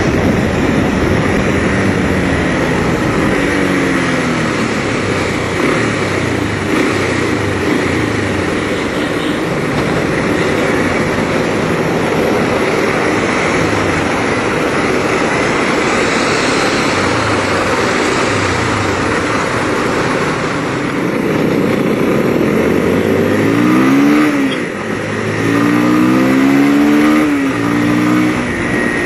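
Onboard sound of a 200cc Bajaj Pulsar (Rouser) motorcycle's single-cylinder engine under way, its pitch repeatedly rising with throttle and dropping between gear changes, over a steady rush of wind and road noise. Near the end it pulls up through the gears in two quick rising sweeps with a brief dip between them.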